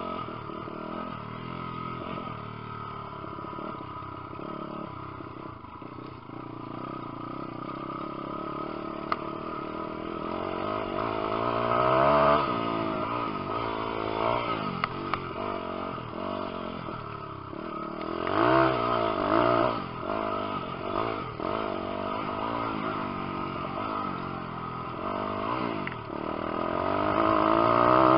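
Lifan 150cc single-cylinder four-stroke pit bike engine revving up and down as it is ridden round a motocross track, its pitch rising and falling again and again. It surges loudest about twelve seconds in, again around nineteen seconds, and once more near the end.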